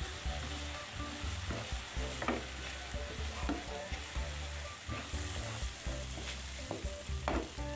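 Chopped chili, shallot and garlic paste sizzling in a nonstick frying pan while a spatula stirs and scrapes it around, with scattered light scrapes and taps of the spatula against the pan.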